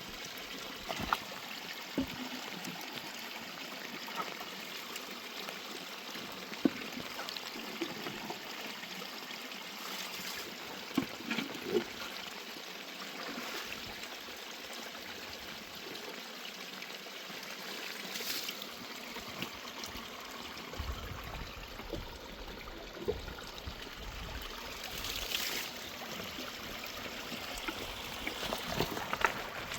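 Water running steadily like a stream, with scattered small knocks. A low rumble comes in about two-thirds of the way through.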